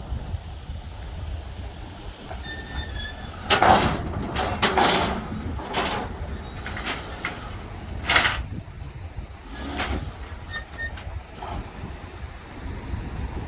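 Loud metal clanks and bangs, about five spaced a second or two apart, from a car-hauler stack trailer's steel decks and ramps being worked, over a steady low engine rumble.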